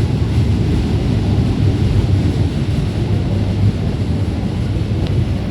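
Gajayana passenger train running along the track, a loud steady low rumble without breaks.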